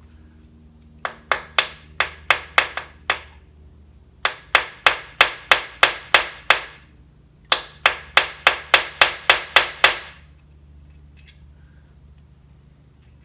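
Hammer tapping in three quick runs of about eight to ten sharp strikes each, roughly four strikes a second, with short pauses between the runs.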